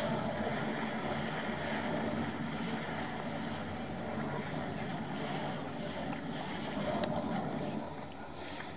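A tourist boat's engine running at low speed as it manoeuvres into a berth, mixed with steady wind and water noise.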